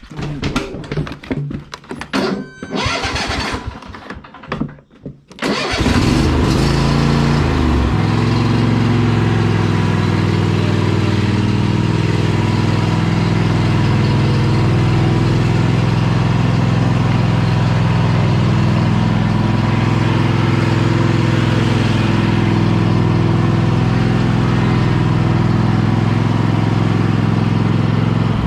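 Clanks and knocks of equipment being handled, then about five and a half seconds in an engine starts, its pitch rising as it catches, and runs on steadily.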